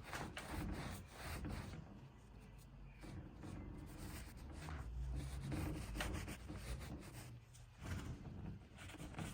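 Rag wiping paint stripper and softened paint off a wooden cabinet panel: faint, uneven rubbing strokes.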